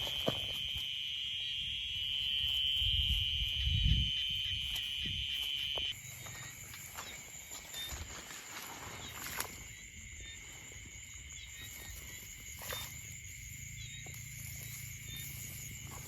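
Steady high-pitched chorus of night insects, with low rustling and handling noises in the first few seconds. About six seconds in it cuts abruptly to a quieter insect chorus at a different pitch, with a few sharp clicks.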